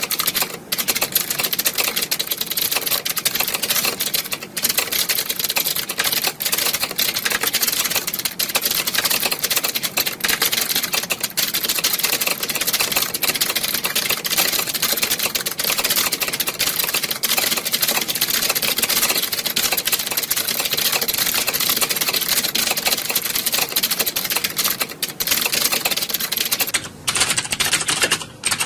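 Many computer keyboards being typed on at once, a dense, continuous clatter of key clicks.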